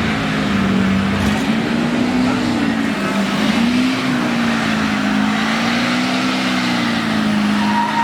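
Lifted pickup truck's engine held at high revs while it slides sideways, its pitch swaying slowly up and down, over a steady wash of noise.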